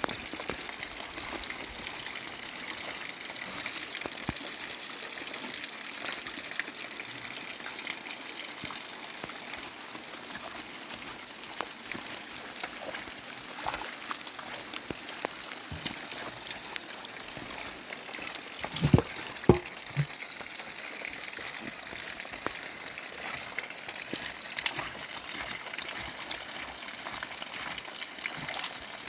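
Steady rush of heavy rain and running water. About two-thirds of the way through come a few sharp knocks.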